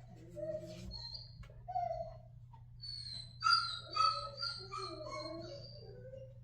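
Puppy whining: short, high-pitched whines, a few scattered at first and then a quick run of them from about three seconds in. A steady low hum sits under them.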